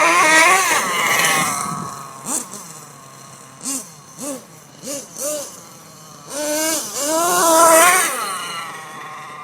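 Nitro RC monster truck's small glow-fuel engine revving: a long rev at the start, then several short throttle blips, then another long rev that climbs and falls off near the end.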